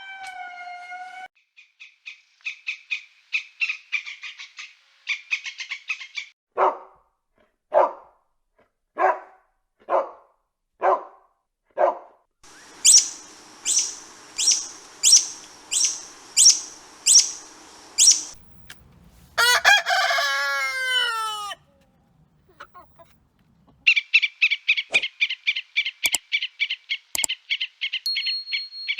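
A string of different bird and animal calls, one kind after another with short gaps: rapid chirping, a run of falling calls about once a second, shrill calls about twice a second, a single long falling call, then rapid chirping again.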